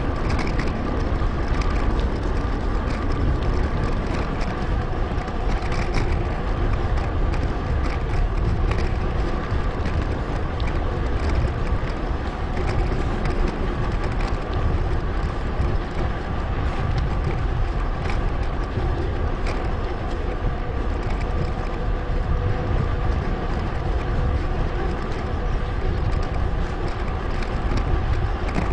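Wind rushing over an action camera's microphone while riding a bicycle, a steady rumbling noise with faint steady tones above it.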